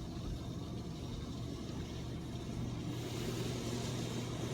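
Steady low machine hum heard from inside a car in a touchless automatic car wash, between the wash and dry stages, with a faint hiss that grows a little about three seconds in.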